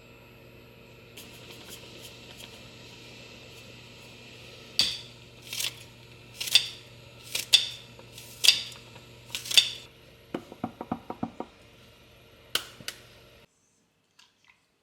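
Kitchen utensil handling: six sharp knocks about a second apart, then a quick run of light clicks and two more knocks, over a steady hum. The sound cuts off suddenly near the end.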